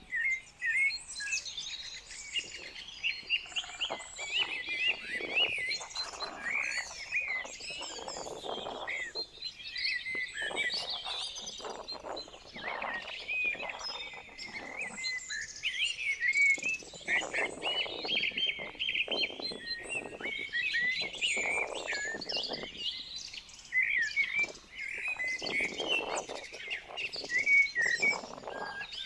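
Many small birds chirping and singing at once in a dense, overlapping chorus of short high calls and trills, with repeated short rustling noises lower in pitch underneath.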